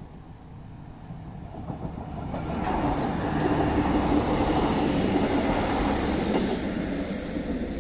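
A two-car passenger train passing over a level crossing close by. The sound of wheels on rail builds for about the first three seconds, is loudest while the cars go past, and fades near the end.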